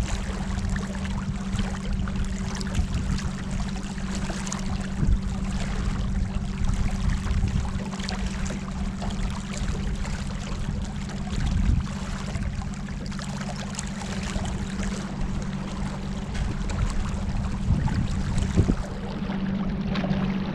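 Water trickling and splashing against a small boat moving on the river, with a steady low hum underneath.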